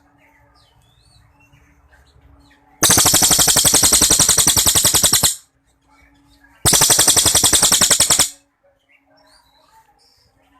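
A cililin singing two long, loud, rapid runs of repeated notes, the first about two and a half seconds long, the second shorter, a few seconds later. This is the bird's long 'shot' phrase in full song. Faint small chirps come between the runs.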